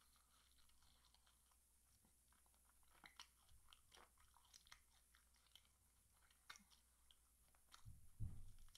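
Faint close-up chewing and crunching of fried chicken wing, with scattered small clicks, and a low thump near the end.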